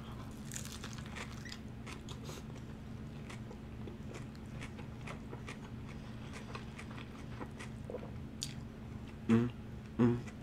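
A person chewing a big mouthful of lettuce-wrapped burger, close to the microphone: crunchy, wet chewing with many small mouth clicks. Two short low voice sounds come near the end.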